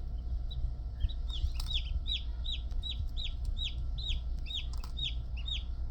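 Newly hatched chick peeping: a run of short, high, falling peeps, about three a second, starting about a second and a half in and stopping near the end.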